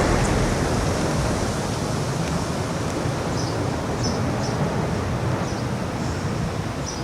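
Strong wind rushing and buffeting the camcorder microphone around a passing F4 tornado, a steady roar that eases slightly over the seconds, with a few faint ticks on top.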